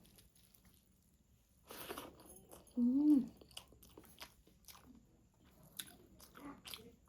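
A person eating rice and spicy chicken curry: a bite about two seconds in, a short hum of the voice just after, then chewing with many small wet mouth clicks.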